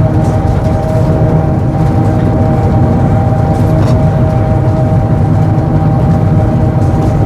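Vintage tram running along the track: a steady low rumble with a steady whine held at one pitch over it.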